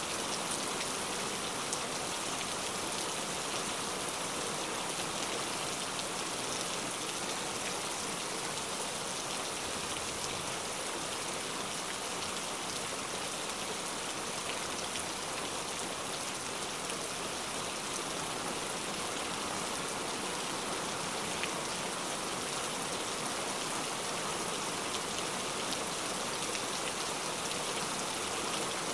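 Steady rain falling, an even hiss with many small, scattered drop hits on surfaces.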